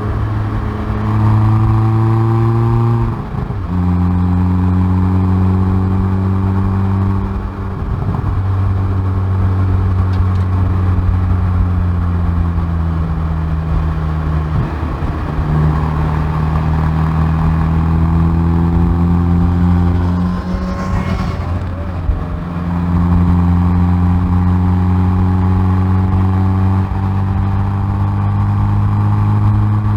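Exhaust note of a Hyundai i30N Performance's turbocharged 2.0-litre four-cylinder at full track pace, picked up at the rear bumper. The engine pitch climbs steadily under acceleration and changes abruptly at each of several gear changes, with a rough, unsettled stretch about two-thirds of the way through as the car slows and shifts down.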